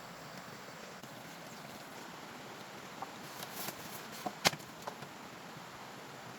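A handful of short, sharp knocks and clicks over a steady background hiss, the loudest about four and a half seconds in.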